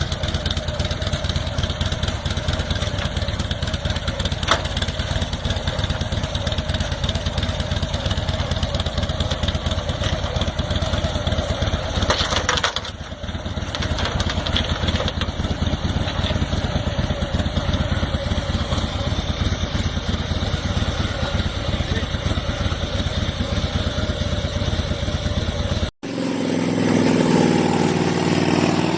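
Motorcycle engine idling steadily while the bike is backed down a loading ramp. It cuts off abruptly near the end, and a different sound with several steady tones follows.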